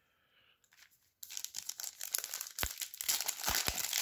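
Foil trading-card pack wrapper crinkling and rustling as it is handled, starting about a second in, with a few sharp clicks.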